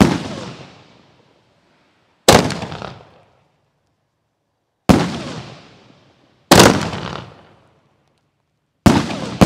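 Victory Ring consumer fireworks cake by Stargate Fireworks firing shots: five loud, sharp bangs about two seconds apart, each dying away over about a second.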